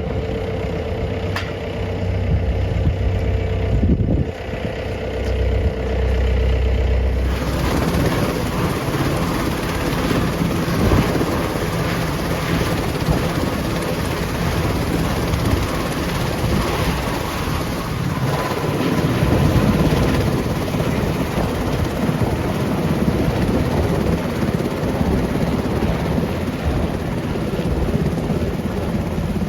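Helicopter running: a steady low engine hum with a constant tone, changing abruptly about seven seconds in to a denser, fuller rotor-and-turbine noise with a fast, even beat.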